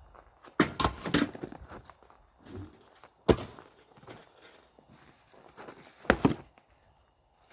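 Axe splitting firewood: three sharp strikes on the wood about three seconds apart. The middle strike is the loudest, and the first is followed by a short clatter.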